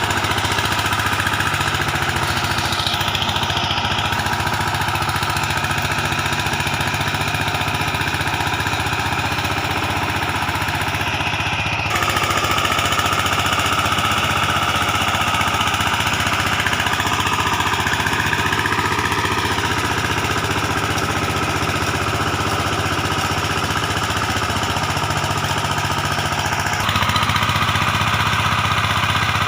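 VST Shakti 130 DI power tiller's single-cylinder diesel engine running steadily with a rapid knocking beat. The sound changes abruptly about twelve seconds in and grows slightly louder near the end.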